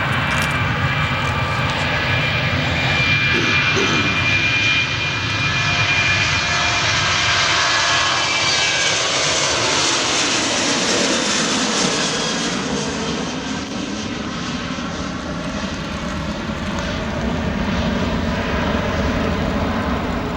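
Ryanair Boeing 737-800's CFM56 jet engines at takeoff power: a loud jet noise with a steady fan whine at first. The hiss swells as the aircraft passes, about halfway through, then eases into a deep rumble as it climbs away.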